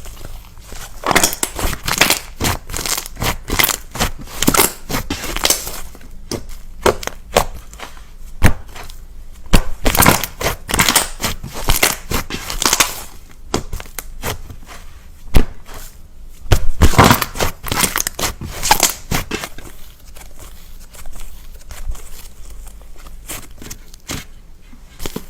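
Knife cutting through a bar of soap: runs of crisp, crunchy cutting strokes, several to a run, with short pauses between the runs.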